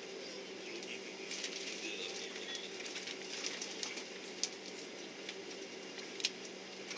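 Steady hum of an Airbus A330-300 cabin before takeoff, the air conditioning and engines running, with faint passenger sounds and scattered small clicks; two sharper clicks stand out, one about four and a half seconds in and one near the end.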